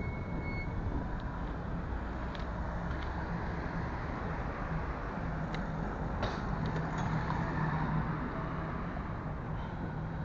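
Road traffic passing, with a steady rumble of car engines and tyres and a faint engine hum swelling about two-thirds of the way in.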